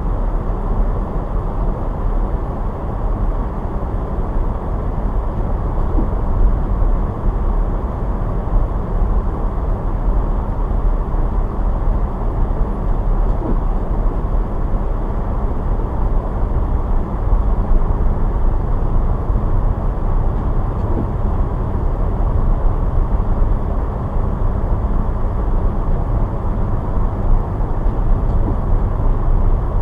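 Steady road noise of a car driving: a constant low rumble of tyres and engine on snowy roads, with no distinct events.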